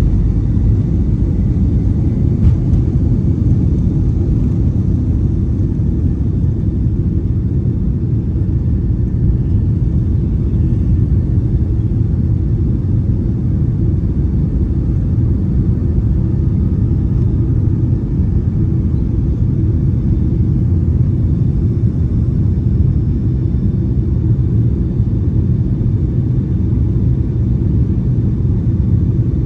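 Steady low rumble inside the cabin of a Boeing 757-200, the engines and airframe running at an even level, with a brief click about two and a half seconds in.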